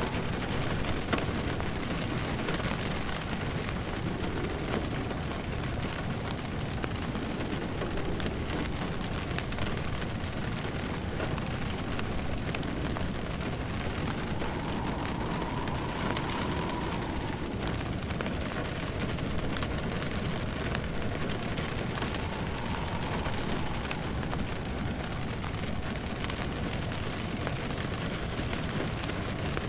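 Steady rain mixed with a wood fire crackling. A faint whistling wind rises and falls about halfway through, and again more briefly later.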